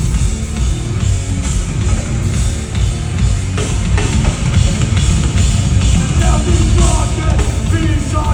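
Live heavy metal band playing loud: pounding drums and heavy, distorted low end. A wavering higher line comes in over it about six seconds in.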